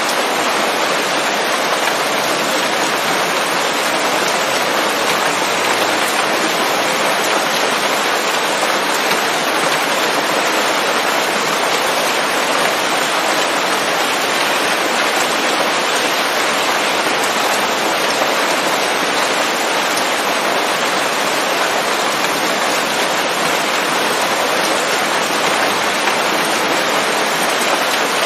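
Steady heavy rain falling on leaves, a dense even hiss of drops without let-up.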